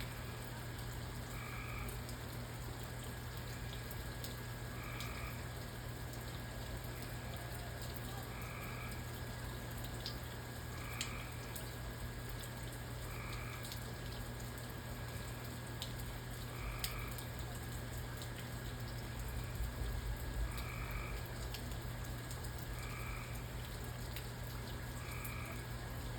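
A frog calling in short croaks, one about every two to three seconds, over a steady low hum and scattered faint drips.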